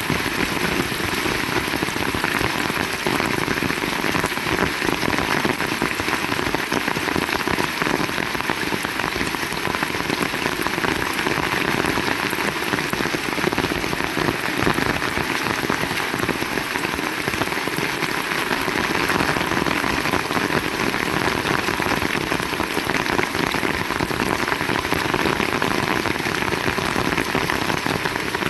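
Heavy rain falling steadily on surfaces, a dense, even hiss of drops with no letup.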